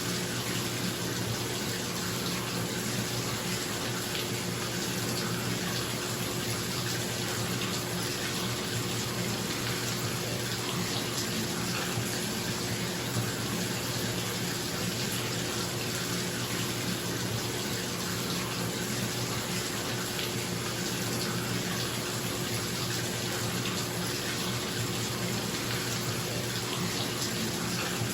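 Water running steadily from a tap into a bathtub, a continuous splashing rush, over the steady hum of a bathroom exhaust fan.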